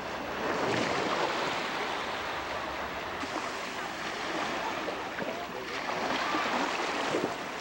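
Steady rushing noise of water and wind, like surf, with faint voices in the background.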